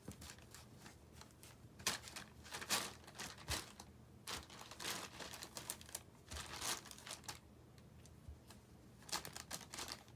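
Crinkly plastic packaging rustling and crinkling in short, irregular bursts, as if batted and pushed about, with a quieter stretch late on.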